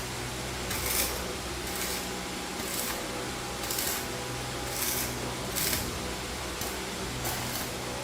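Rhythmic scraping strokes, about one a second, over a steady low hum.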